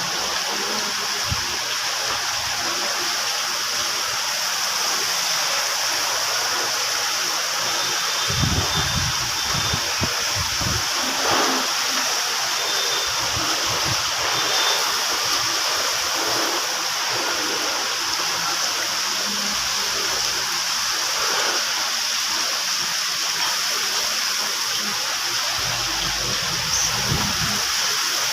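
Heavy rain pouring down in a steady hiss, with a few low gusts of wind buffeting the microphone.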